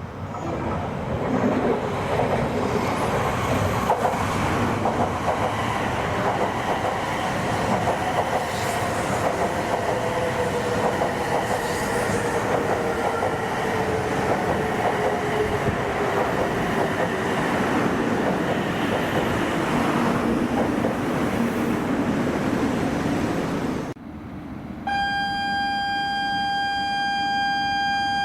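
A Shinkansen bullet train running past at speed: a long, loud rushing rail noise with slowly falling tones. Near the end it cuts off abruptly and a steady, high, horn-like tone begins.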